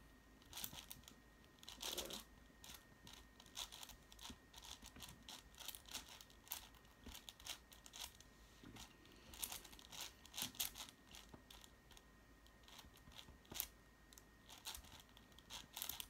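Faint plastic clicking and scraping of a 6x6 Rubik's cube's layers being twisted by hand in quick, irregular turns while its centers are being built.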